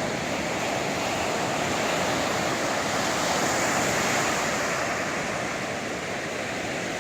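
Sea waves breaking and washing on the shore, a steady surf noise that swells to a peak about halfway through and eases off, with some wind on the microphone.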